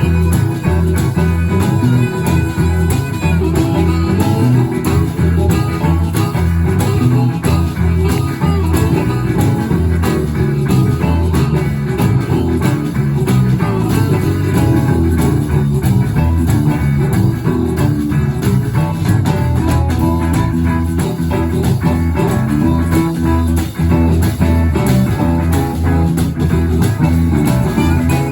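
Live blues band playing a steady groove, with guitar out front over bass and drums.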